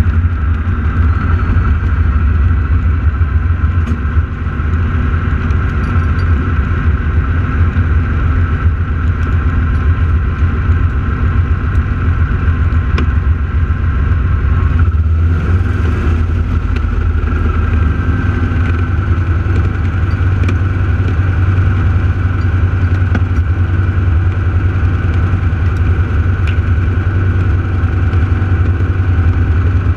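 Radial piston engines of T-6 Texan aerobatic airplanes droning steadily.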